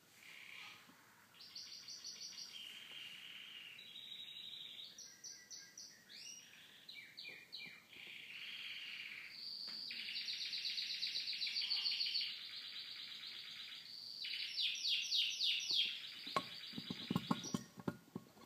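Birdsong: high chirps, trills and quick rattling twitters in changing phrases, some of them short falling notes. Near the end it gives way to a short run of sharp clicks and knocks.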